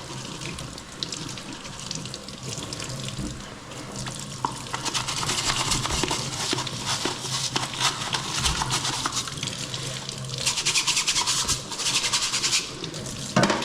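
Kitchen faucet running water into the sink while a dishwasher filter is scrubbed under it with a stiff brush, rapid scratchy strokes joining in about four seconds in and strongest near the end.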